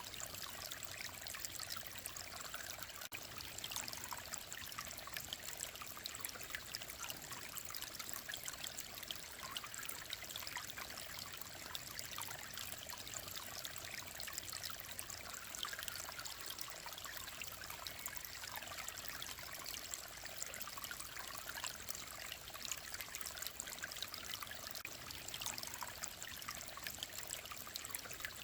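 Mountain stream running steadily, with a continuous light trickling and splashing of clear water.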